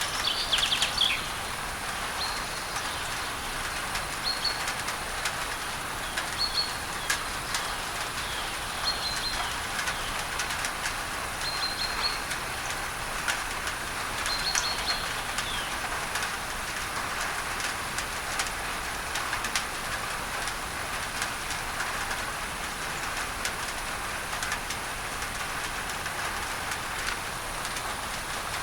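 Steady rain on a tin roof with sharp drop ticks, blended with a masking noise. A bird calls about a second in, then gives short high chirps every two seconds or so through the first half.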